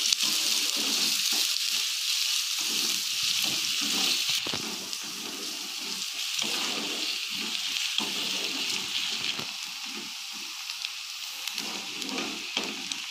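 Chopped onions sizzling in hot oil in a kadai over medium heat, a spatula stirring and scraping them round the pan. The sizzle eases a little about four seconds in.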